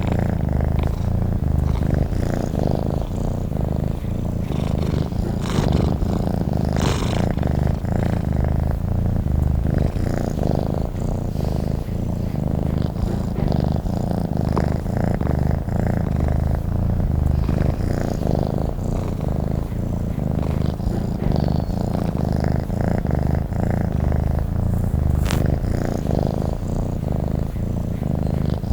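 Domestic cat purring steadily and close, a continuous low rumble that pulses in and out with each breath. A faint click or two.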